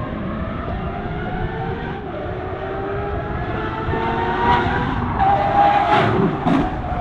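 Outboard engines of a high-horsepower sport boat running, their pitch climbing slowly. Several short, sharp noises come near the end.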